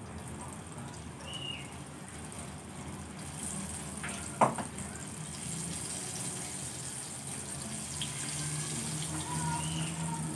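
Water running from a kitchen tap, getting stronger about three seconds in, with one sharp clink that rings briefly about four and a half seconds in.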